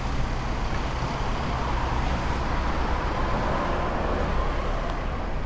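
Small Herald motorcycle running, with a steady low engine rumble and road noise.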